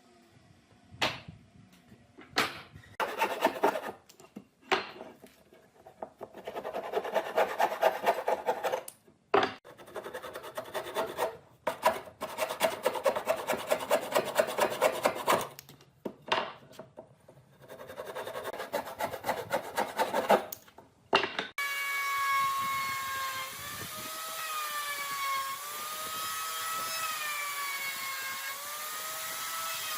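Wood being worked by hand in short bursts of quick scraping strokes, like sawing or rasping, with brief pauses between. About two-thirds of the way in this cuts off suddenly, and a power tool's motor runs steadily, its pitch wavering slowly up and down.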